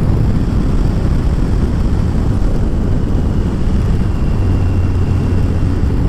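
Kawasaki ZZR1400 inline-four motorcycle cruising at a steady speed, engine hum under heavy wind rush on the onboard microphone. A steady low drone from the engine sets in about four seconds in.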